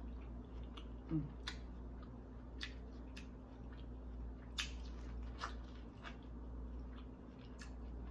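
Close-up mouth sounds of chewing corn on the cob: scattered short, wet clicks and smacks, a dozen or so spread through, over a steady low hum.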